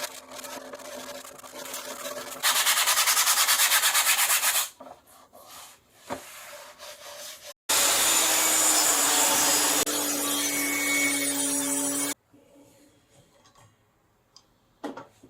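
Wooden cello body being sanded, in several short edited takes: first fast, even rubbing strokes, then a loud steady hiss with a low hum, with quiet gaps holding a few small clicks between them.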